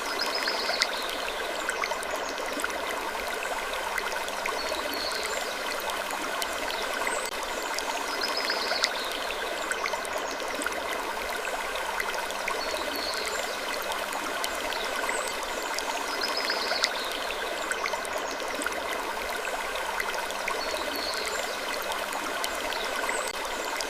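A looped sleep-ambience bed: a steady rushing noise like running water, with faint short high creaks recurring every few seconds.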